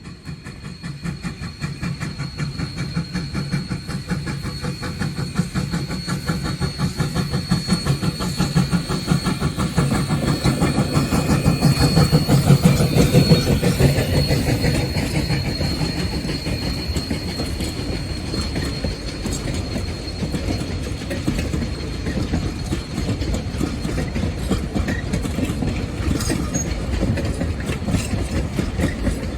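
Steam train passing: rapid rhythmic beats that grow louder to a peak about halfway through, then ease off a little. A thin, steady high squeal runs over them.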